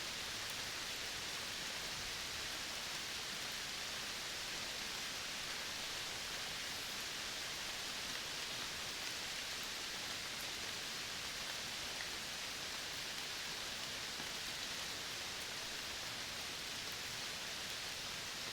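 Steady, even outdoor nature hiss, high in pitch and unchanging, with no distinct calls or drops standing out.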